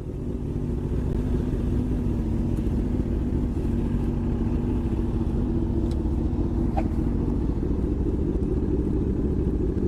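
Motorcycle engine running steadily at an even speed while riding, fading in over the first second.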